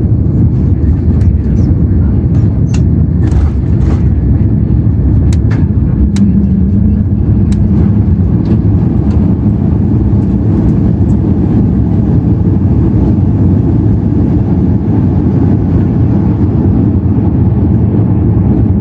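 Airbus A330-300 with Pratt & Whitney PW4168A engines on its landing rollout: a loud, steady, deep rumble of the engines and the airframe on the runway, heard inside the cabin. Sharp clicks and rattles of cabin fittings come through in the first several seconds, then ease off.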